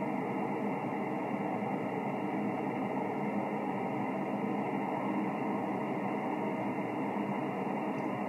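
Steady hiss and static from a Yaesu FT-1000MP HF receiver tuned to an idle single-sideband channel on 20 metres: band noise with no station transmitting while the net is on standby.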